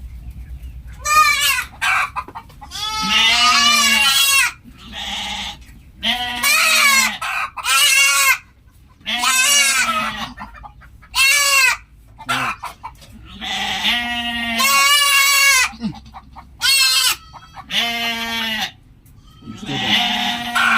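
Goats bleating over and over, loud wavering calls of up to about a second each with short gaps between them.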